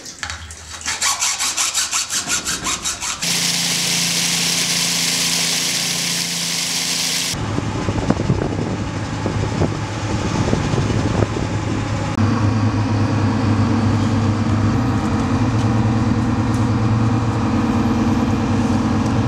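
Machinery running in three cut segments: a couple of seconds of rapid rhythmic chugging, then a steady hiss over a low hum, then a steadier low engine drone. This fits the pump rigged to draw the last few inches of water out of the hull.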